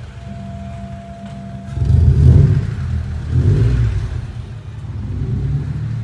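A red Honda car's engine pulling away and driving past at close range, swelling loudest about two seconds in and again a second or so later, then easing off.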